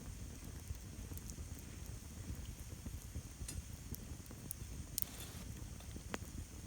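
Wood campfire burning with a steady low rumble and scattered sharp crackles and pops, the loudest pop about five seconds in.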